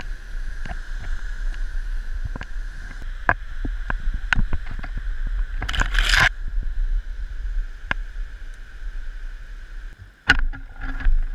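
Steady rushing of a waterfall in the canyon under a low rumble, with many scattered knocks and clicks. There is a louder scuffing burst about six seconds in and another just after ten seconds.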